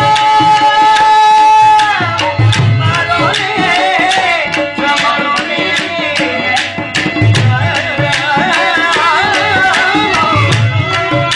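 Rajasthani folk music with a hand drum keeping a steady rhythm under a melody. The melody holds one long note for the first two seconds or so, then moves on in quick ornamented turns.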